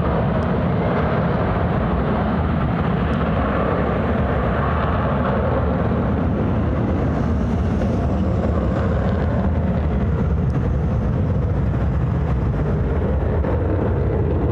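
F-35 Lightning's jet engine, a loud, steady noise of jet thrust that neither rises nor falls.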